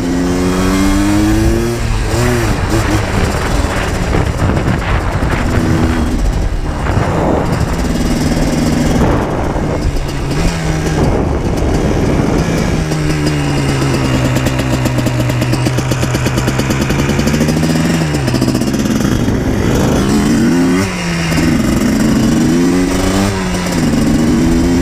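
2000 Yamaha Blaster 200 quad's single-cylinder two-stroke engine under way. Its pitch rises and drops through several gear changes, holds a long steady lower note in the middle, then climbs and falls again a few times near the end.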